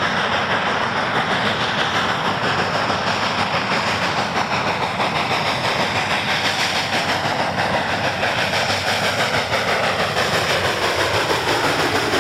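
Narrow-gauge train running steadily along the track, wheels and cars rattling over the rails.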